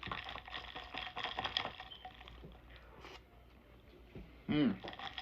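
Crinkling and rustling of plastic food packaging being handled, loudest for the first two seconds, then scattered small clicks. Near the end comes a short hummed 'mm' with a falling pitch.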